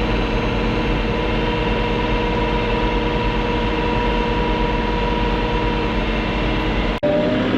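Diesel farm tractor engine running steadily under way, a constant drone with a strong low rumble and a faint higher tone over it.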